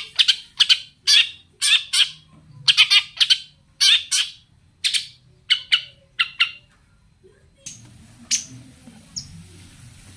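Long-tailed shrike (cendet) giving loud, harsh, rasping calls in quick pairs and triplets. About seven and a half seconds in, the calls turn sparse and faint over a low hiss.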